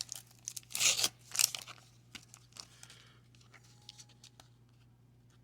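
Wax paper card pack wrapper crinkling and tearing in two short bursts about a second in, followed by light clicks and ticks of cards being handled.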